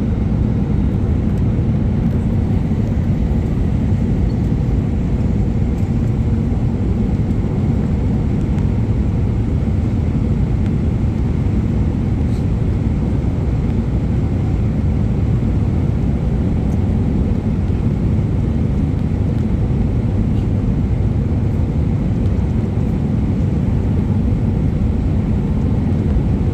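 Steady low rumble of an airliner in flight, its engines and the rushing air running evenly without change, during the approach to landing.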